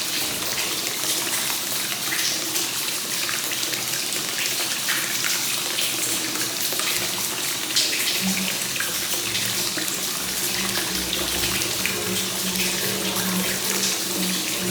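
Free-flowing hot spring water (kakenagashi) running steadily into a bath with a constant splashing trickle. About halfway through, a low steady hum joins in underneath.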